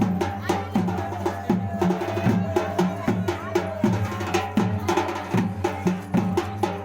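Drums played in a quick, steady rhythm.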